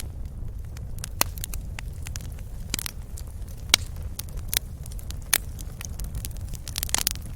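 Wood fire crackling in a fireplace: irregular sharp pops and snaps over a steady low rumble of the flames, with a quick cluster of pops near the end.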